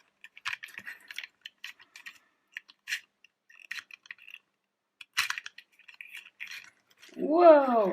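Irregular small clicks and light clinks as the extendable ladder of a toy fire engine is pulled out section by section, with short pauses between.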